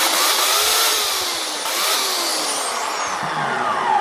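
Electric chainsaw motor and freshly sharpened chain running at speed off the wood, then released so that the motor spins down with a falling whine near the end.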